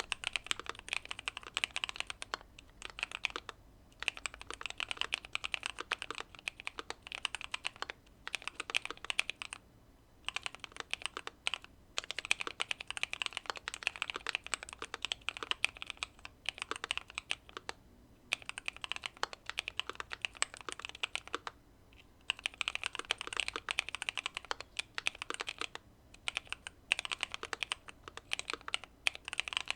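Mechanical keyboard typing: a Keychron Q2 with factory-lubed Pearl Lemon linear switches, tape mod and case foam, keys struck in fast runs of clicks broken by short pauses.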